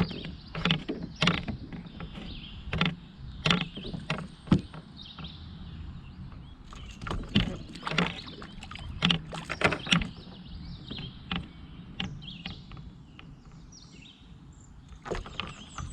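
A hooked fish thrashing at the surface beside a kayak while it is reeled in: irregular sharp splashes and knocks, coming thickly at first and thinning out near the end.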